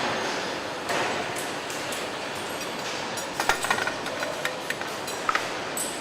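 Truck factory floor noise: a steady mechanical din with scattered metallic clinks and knocks, a cluster of them a little past halfway.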